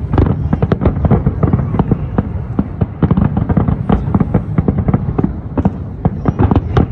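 Fireworks display in a rapid barrage: many sharp bangs and crackles a fraction of a second apart over a steady low rumble.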